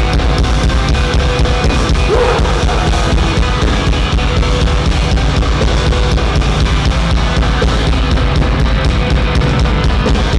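Live hardcore punk band playing loud and without pause: distorted electric guitars over a fast, driving drum kit.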